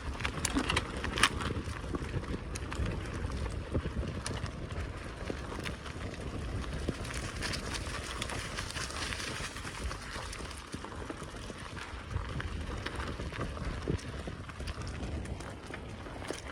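Bicycle riding over a forest track: tyres rolling and crunching, with frequent small clicks and rattles and a low rumble underneath.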